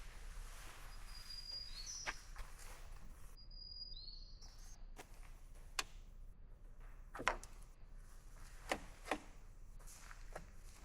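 Scattered sharp pops, about six at uneven intervals, over a quiet outdoor background, with two brief high chirps about one and four seconds in.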